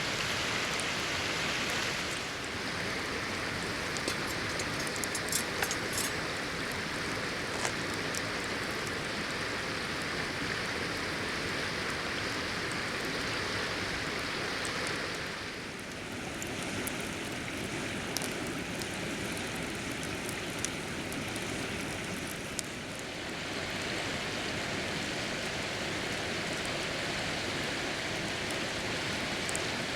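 Steady hiss of water, such as a river flowing or rain falling, with a few faint ticks; the level dips briefly twice.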